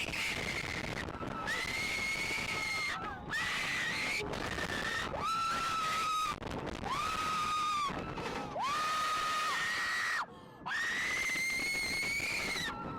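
A young child's high-pitched screams: about six long, held squeals, one to two seconds each. The first and last are higher; those in the middle are lower and shorter.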